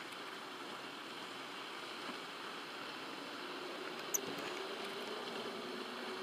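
Steady outdoor background hiss, with a faint low hum coming in during the second half and a single sharp click about four seconds in.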